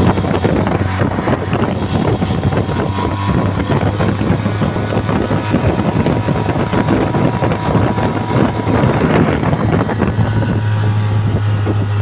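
Suzuki DF15 four-stroke outboard motor running with the boat under way, its steady low drone mixed with a rush of wind and water. About ten seconds in the rushing eases, leaving the engine drone more to the fore.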